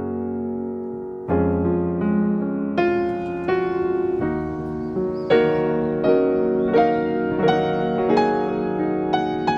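Background piano music: a held chord that changes about a second in, then a gentle melody of single struck notes over sustained low notes.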